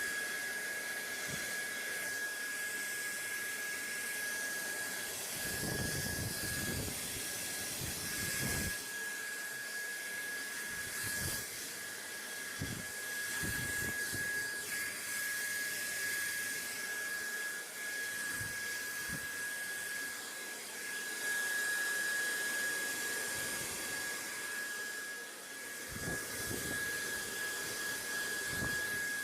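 Steady rushing air noise from a running motorised appliance, with a constant high-pitched motor whine over an even hiss. Low rumbles come and go, mostly around six to nine seconds in and again near the end.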